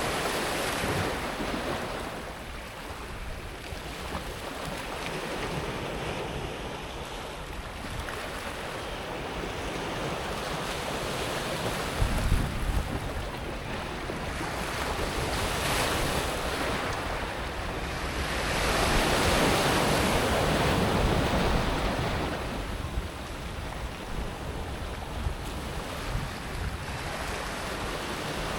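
Sea waves breaking on a pebble beach, the water washing over the smooth pebbles in surges that swell and fade every few seconds. The loudest wave lands with a low thud about twelve seconds in.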